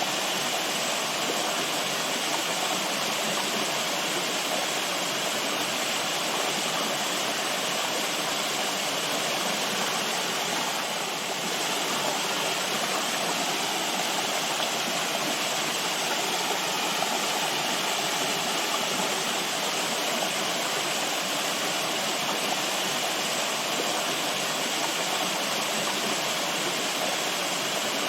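Running water, a steady rushing of a stream or small waterfall, even throughout.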